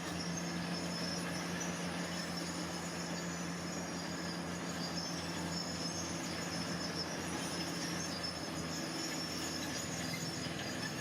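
Diesel engine of heavy earth-moving equipment running steadily under a constant load, with a low, even hum and no change in pace.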